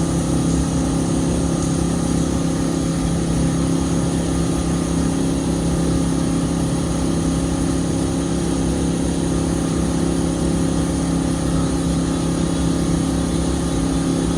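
MB B52 wakesurf boat's inboard engine running steadily under load while towing a surf wave, a constant low drone over the rushing of water past the hull.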